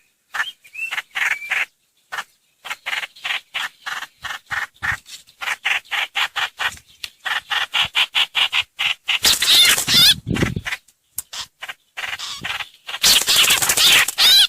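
Trao trảo (hoành hoạch) bird calls: a fast chatter of short, sharp notes repeated several times a second. Two louder, harsher bursts of chatter come partway through and near the end. It is a lure call for attracting the birds.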